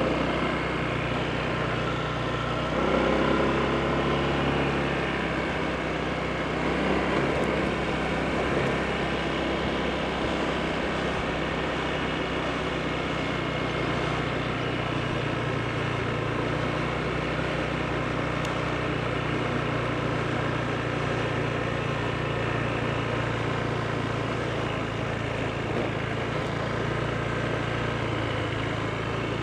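Honda PCX scooter's single-cylinder four-stroke engine running steadily while riding, its note rising and swelling a few seconds in and again shortly after.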